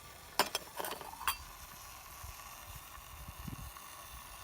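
Metal cup clinking against the top of a Swiss Volcano camp stove as it is set down and shifted, four sharp clinks in the first second and a half, with a faint steady hiss underneath.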